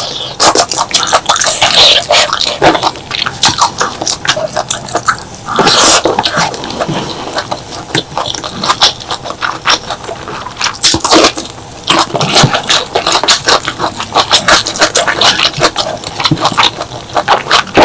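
Close-miked eating sounds: wet chewing with a dense run of quick mouth clicks and squelches, and a louder burst about six seconds in and again about eleven seconds in.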